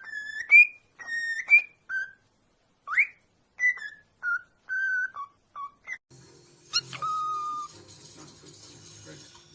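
Parrot whistling a string of short clear notes, some sliding upward in pitch. Later comes one longer held whistle with a sharp start.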